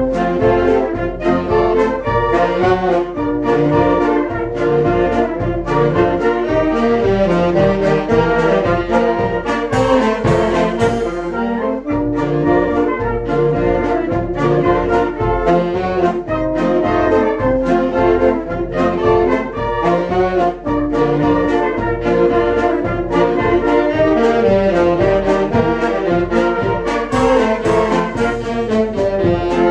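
Children's brass band playing a tune together, trumpets and trombones to the fore, over a steady beat.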